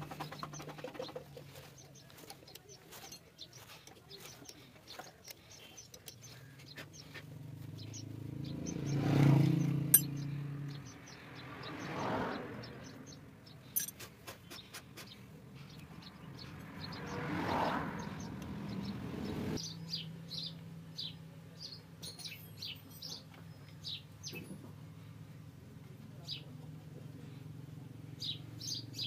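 Small birds chirping again and again, mostly in the second half, over scattered light metallic clicks from hand work at the engine's oil drain bolt hole. Three swells of noise rise and fade over a couple of seconds each, the loudest about a third of the way in.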